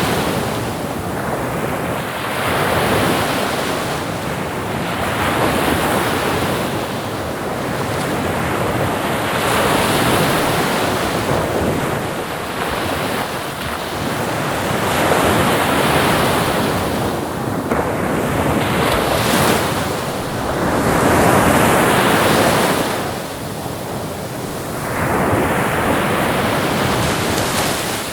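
Ocean waves breaking and washing on a shore, swelling and falling every two to three seconds, with wind on the microphone.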